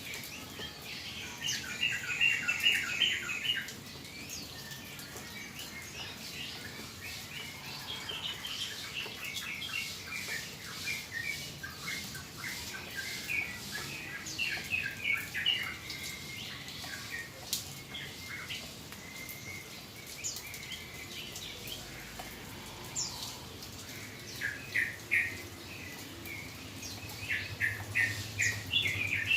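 Yellow-vented bulbul (trucukan) chirping in rapid runs of short, bright notes, in several spells with pauses between, over a light background patter.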